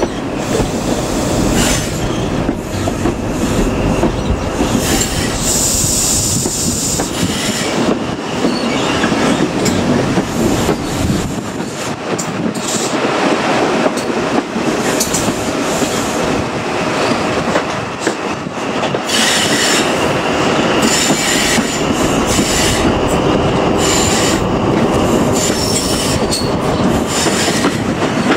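HST set of Class 43 power cars and Mark 3 carriages running along the track: steady wheel-on-rail noise with clicks over the rail joints and high wheel squeal, strongest about six seconds in.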